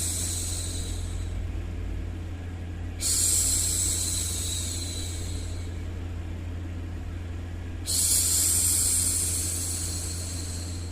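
A woman's voice making long 'shhh' hushing sounds for soothing a baby, about every five seconds, each starting suddenly and fading away over a few seconds. Underneath is a steady low hum.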